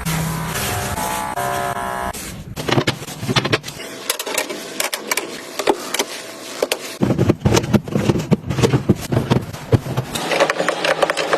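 Plastic storage boxes, lids and food packaging handled and set into a refrigerator: many close clicks, taps and knocks with crinkling and rustling between them. The first two seconds hold a short run of pitched tones that change in steps.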